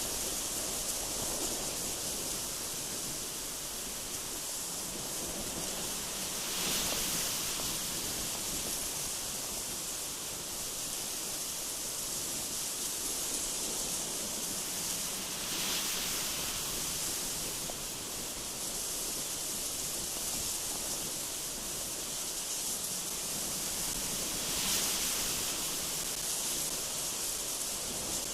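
Strong gusty wind rushing through trees: a steady, hissy rush that swells in three brief gusts.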